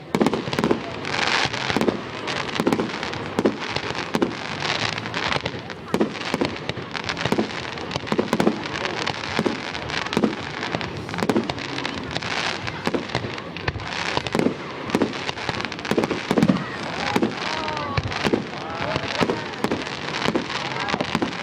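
Fireworks display: a continuous run of sharp bangs, several a second at times, over dense crackling from bursting shells.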